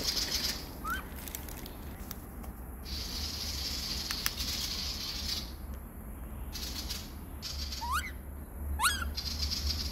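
Young butcherbird calling as it is hand-fed: a short rising chirp about a second in, then two quick rising whistles near the end. A hiss comes and goes in between, over a steady low hum.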